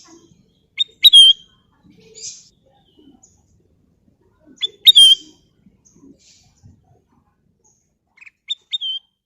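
Ruby-throated bulbul (kutilang emas) giving three short, sharp whistled call phrases, about four seconds apart.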